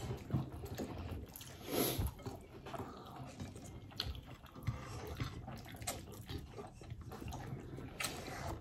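Biting and chewing crispy fried chicken: scattered short crunches and wet mouth clicks.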